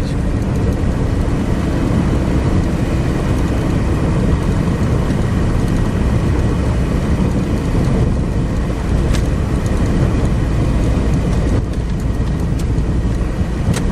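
Steady engine and road noise heard from inside a small car's cabin while it is being driven.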